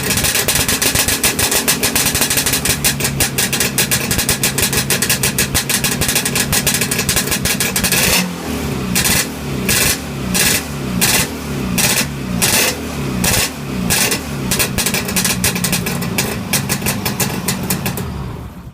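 1959 Cotton Herald motorcycle's Villiers two-stroke engine running on its first start after over 30 years, steady at first, then blipped up and down repeatedly from about eight seconds in, and cut off just before the end.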